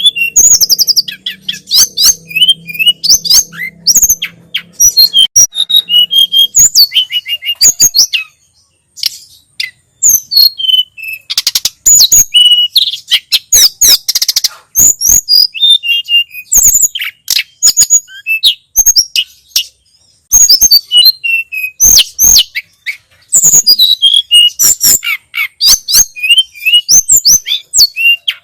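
Tledekan gunung (sulingan gunung) singing a fast, unbroken run of high chirps, short whistled notes and trills, with a brief lull about eight seconds in.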